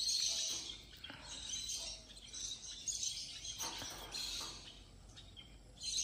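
Birds chirping, high-pitched, loudest right at the start.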